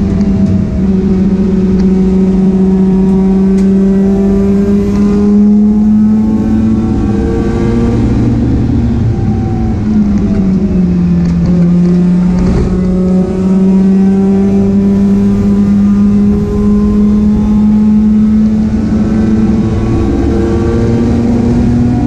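Mazda RX-8 race car's engine running hard at near-steady high revs under load. The pitch sags and drops about ten seconds in, then climbs steadily back up.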